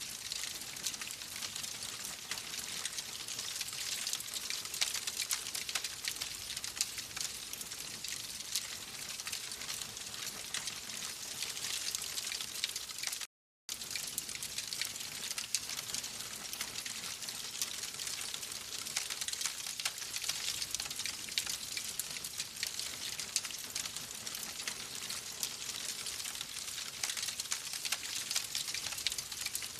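Wood fire crackling steadily, a dense hiss full of small rapid pops and snaps. The sound cuts out completely for a moment a little before halfway, then resumes.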